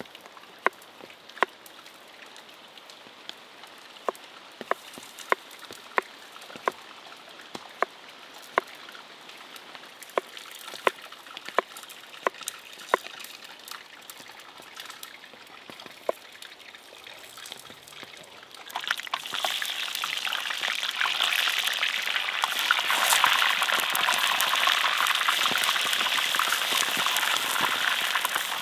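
Sharp, irregular knocks about twice a second over a soft hiss. About 19 seconds in, a loud, steady crackling sizzle starts suddenly, as of food put into a hot pan over the campfire.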